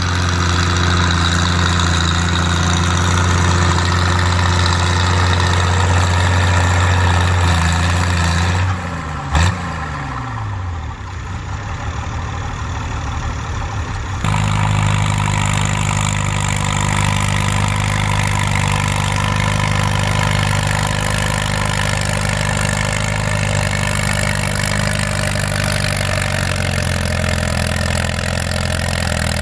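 Farm tractor engine running at steady speed during a tractor pull. About nine seconds in there is a sharp clack and the engine winds down in pitch. A few seconds later another tractor engine is heard running steadily.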